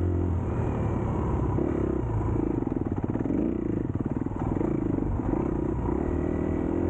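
Dirt bike engine running, its pitch shifting up and down with the throttle.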